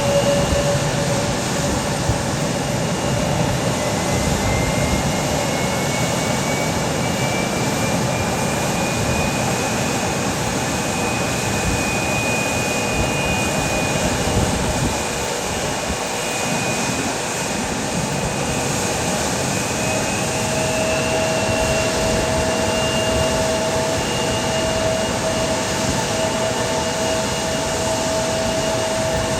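Jet aircraft engines running: a steady, loud rushing noise with thin whining tones that slowly shift in pitch.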